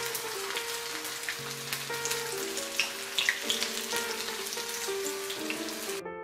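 Vegan sausages frying in shallow oil in a pan: a steady sizzle with sharp crackling pops, over soft background music. The sizzle cuts off suddenly near the end, leaving the music alone.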